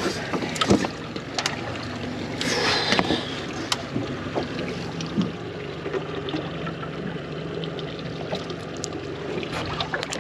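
Small boat on open water: a steady low hum and water noise around the hull, with scattered light clicks and knocks of fishing gear being handled and a brief splashy hiss about two and a half seconds in.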